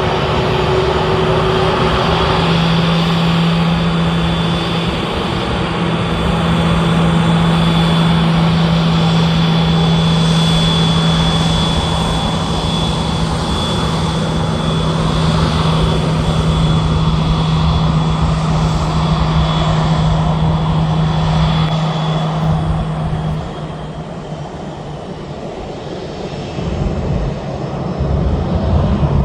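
Boeing 737-700's CFM56-7B turbofan engines running, a steady jet noise with a low hum and a high whine; the sound dips for a few seconds near the end, then swells again.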